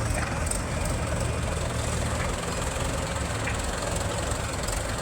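Diesel engine of a heavy loader or tractor running steadily at low revs.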